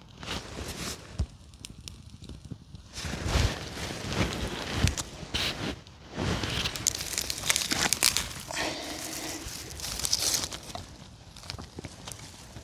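Twigs and branches being handled in forest litter: irregular rustling, crunching and sharp cracks in bursts, over faint crackling of a small damp-wood campfire just catching.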